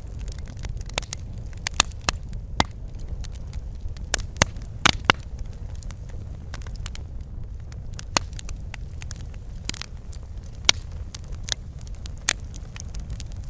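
Wood fire crackling in a fireplace: a steady low rumble of burning with sharp, irregular pops and snaps scattered throughout.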